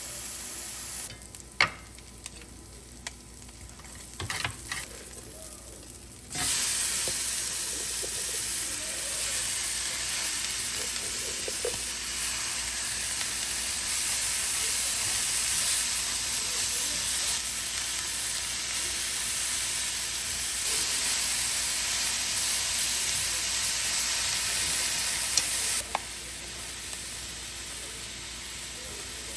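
Food frying in a pan: a few sharp knocks and clicks of a utensil, then loud, steady sizzling starting about six seconds in, which drops back to a quieter sizzle near the end.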